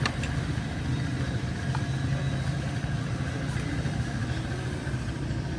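Motorcycle engine idling steadily with an even low hum.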